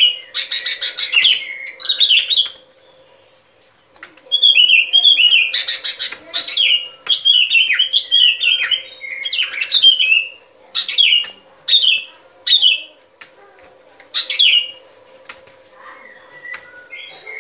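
Bulbul (chim bông lau) calling in quick chattering phrases of short chirps, with sharp clicks among them and a brief pause about three seconds in. A faint steady hum runs underneath.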